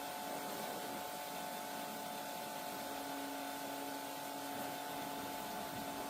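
A steady hum over an even background hiss.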